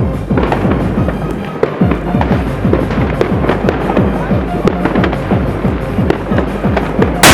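Dense crackling of firework bangs, several a second, over background music. A much louder, heavier bang hits at the very end.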